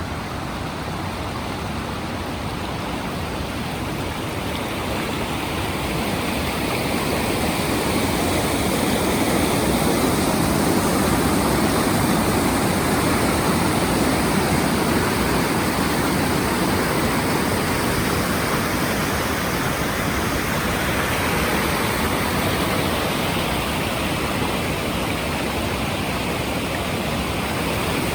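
Waterfall: a steady rush of falling water, growing louder over the first ten seconds or so, then holding steady.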